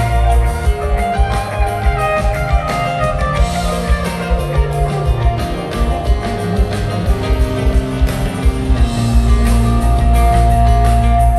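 Rock band jamming live: electric guitar lines over bass and drums, with a long held note near the end.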